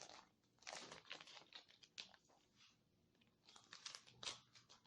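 Sticky tape and paper being handled: faint crinkling and rustling in short, irregular bursts as the tape is pulled and smoothed.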